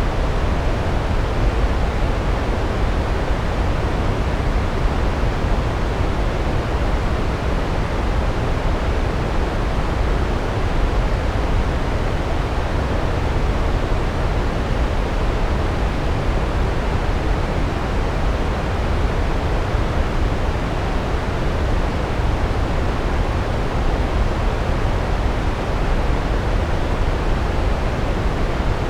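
Large waterfall: a steady, loud rush of falling water, deepest in the low end, with no breaks or separate splashes.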